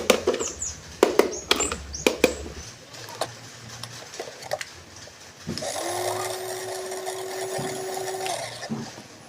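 Sharp plastic clicks and knocks from a toy being handled, then a small electric toy motor whirring steadily for about three seconds before it cuts off.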